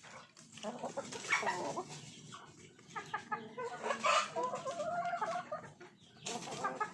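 Chickens clucking: a string of short calls, with one longer, wavering call past the middle.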